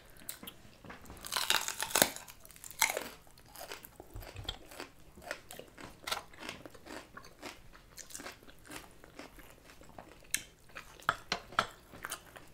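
People biting and chewing crunchy junk food close to the microphone, with the loudest crunching bites in the first three seconds, then a steady run of smaller crunches and mouth clicks.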